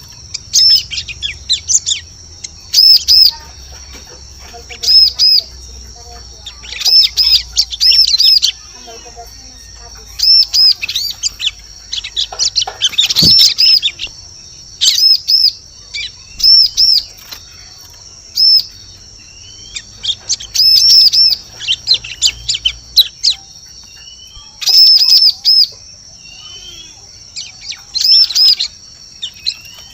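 Bar-winged prinia (ciblek) calling as a bird lure: loud, short clusters of quick high chirping notes, repeated every second or two, over a steady thin high tone.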